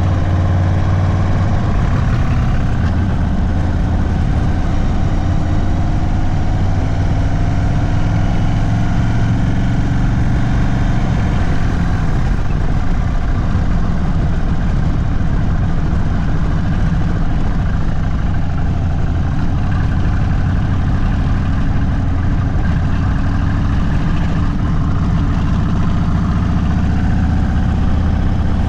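Indian Sport Chief V-twin running through an aftermarket Sawicki Speed exhaust: a steady, deep low-speed rumble whose pitch drifts up and down a little as the throttle changes.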